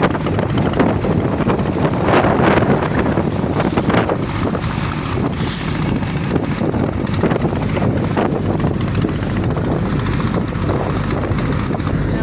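Boat engine running steadily under way, with wind buffeting the microphone in gusts.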